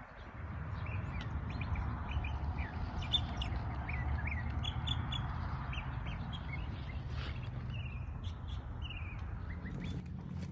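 Several wild birds chirping in short, scattered calls over a steady low rumble.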